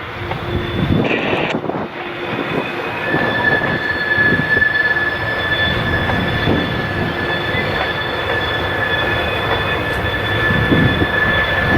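Train rolling past with wheels rumbling and clanking over the rails, and a steady high-pitched wheel squeal setting in about three seconds in.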